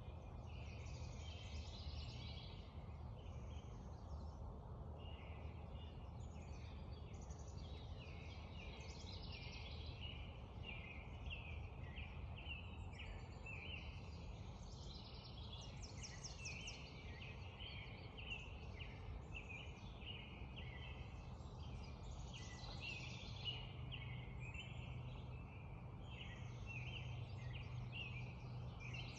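Spring dawn chorus: many birds singing and calling at once, in quick overlapping phrases, over a steady low background rush.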